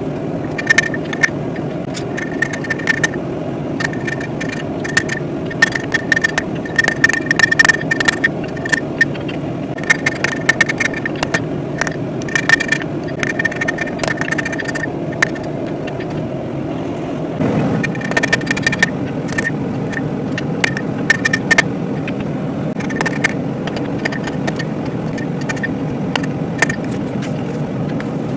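Hammer blows on hot, thick steel on an anvil, drawing out a diamond taper on a forged warhammer head. Runs of sharp, ringing strikes come several a second, with a short pause a little past halfway, over a steady low roar.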